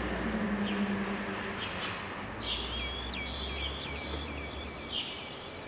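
Birds chirping over a steady outdoor hiss: single short chirps every second or so, and a quick run of chirps in the middle. A low hum sits underneath for the first couple of seconds.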